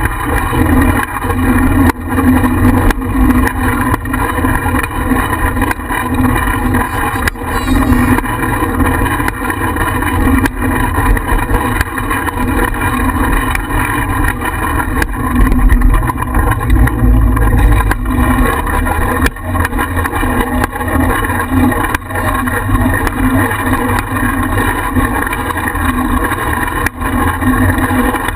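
Wind buffeting and road rumble on a bicycle-mounted GoPro as the bike rolls along, with a steady hum and frequent small knocks and rattles from bumps.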